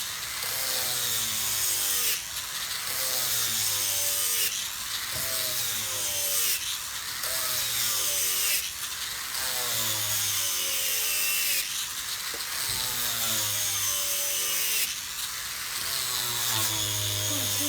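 A power tool working solid wood in repeated passes, one about every two seconds, each pass broken off by a short dip.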